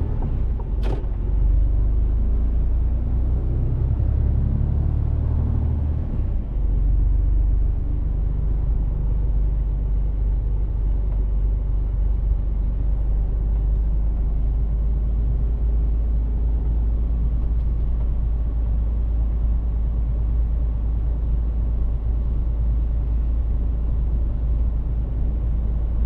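Mercedes-Benz Actros truck's diesel engine and road noise while driving, a steady low rumble. A single sharp click comes about a second in, and the engine note changes around six seconds in before settling.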